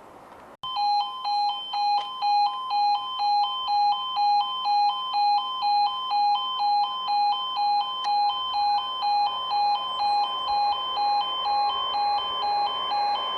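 Level crossing warning alarm sounding: a two-tone warble that starts suddenly about half a second in and alternates between a lower and a higher note about twice a second, warning that a train is approaching. A rising rumble comes in near the end.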